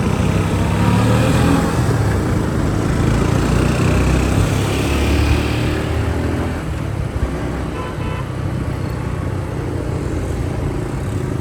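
Motorcycle engine running amid street traffic noise, louder for the first half and easing off about six seconds in.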